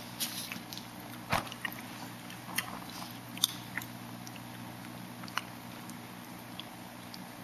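A person chewing food close to the microphone: a few sparse, soft mouth clicks, over a steady low hum.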